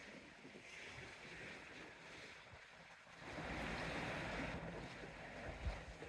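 Sea waves washing in with wind buffeting the microphone; the surf swells louder about three seconds in, and there is a short low thump of wind near the end.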